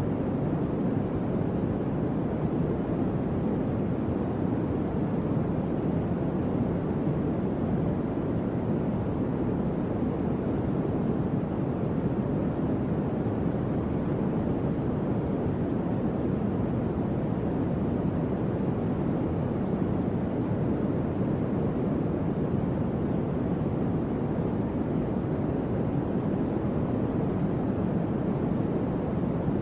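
Electric fan running steadily: an even low whooshing rush of moving air with no change in speed.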